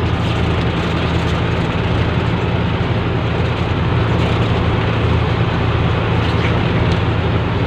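A fishing boat's engine running steadily with a low, even hum, under a constant rush of wind and water noise.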